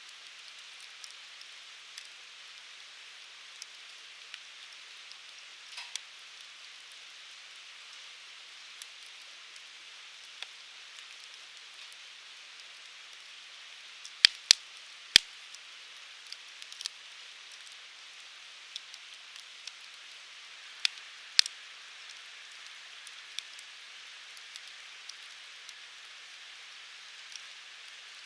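Wood fire burning in a fire pit: a steady hiss of flames with scattered crackles and sharp pops from the firewood, a cluster of loud pops about halfway through and two more a few seconds later.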